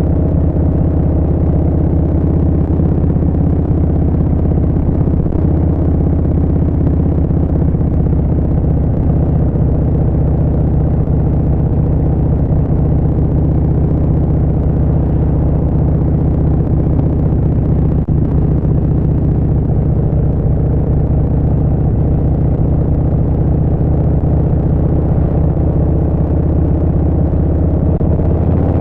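Harley-Davidson Street Bob's Milwaukee-Eight 114 V-twin running through a Vance & Hines Short Shots full exhaust, cruising at a steady engine speed.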